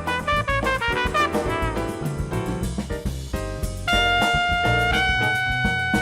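Trumpet playing a jazz-style melody over a backing track with a bass line: a run of quick short notes, then long held notes from about four seconds in.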